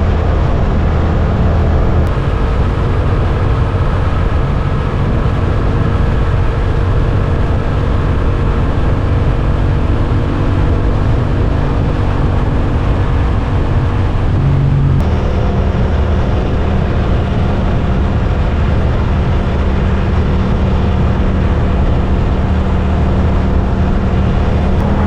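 Suzuki GSX-8S 776 cc parallel-twin engine running steadily while riding, over a continuous rush of noise. The engine note shifts about two seconds in and again around the middle.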